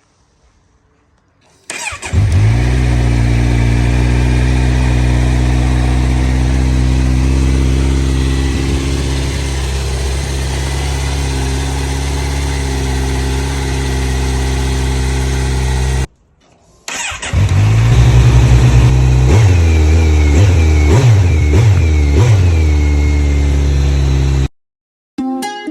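Kawasaki Z900 inline-four motorcycle engine, breathing through an Akrapovic slip-on exhaust with the stock catalytic converter still fitted. It starts about two seconds in and idles steadily, its note settling slightly lower. After a short break it runs again and is blipped several times, then cuts off suddenly.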